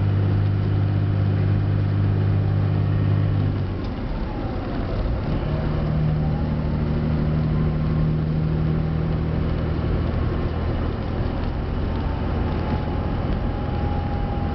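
Cab-interior sound of a 2007 Dodge 5.9 L Cummins inline-six diesel with a 5-inch turbo-back exhaust and resonator, pulling a heavy trailer with a steady low drone. About four seconds in the drone breaks off briefly and returns at lower revs as the manual transmission is upshifted, and a faint whistle dips and rises through the shift.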